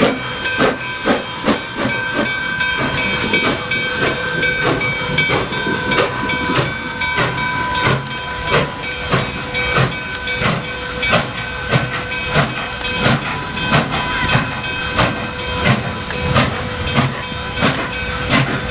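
Nickel Plate Road 765 steam locomotive working steadily, its exhaust beating about two to three times a second under a constant hiss of steam with a few steady tones over it.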